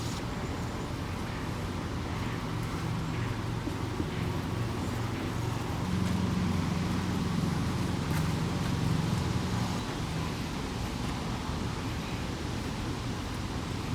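Honeybees buzzing around an opened top bar hive: a steady low hum that swells for a few seconds in the middle.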